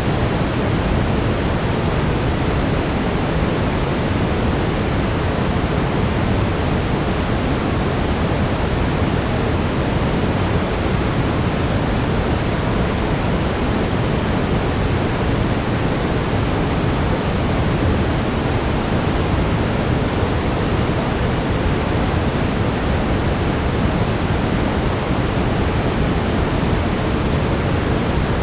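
Steady brown noise: an even, unbroken deep hiss, strongest in the lows.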